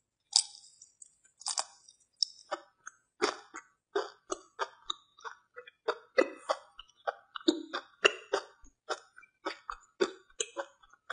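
Close-miked chewing of raw worm, an irregular run of short wet smacks and crunches about two a second.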